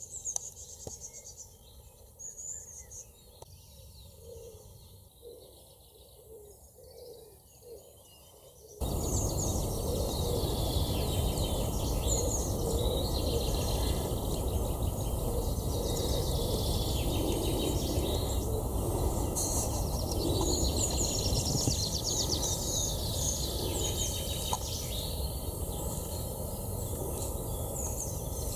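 Small birds chirping and calling outdoors. About nine seconds in, a louder steady rushing noise cuts in abruptly beneath the birdsong and carries on.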